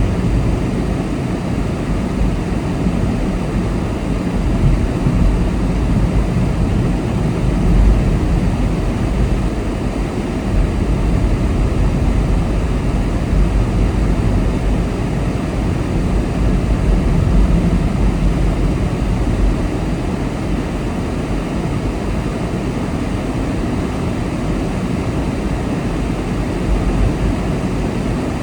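A car driving along at speed: a steady rumble of tyre, engine and wind noise, its level rising and falling slightly.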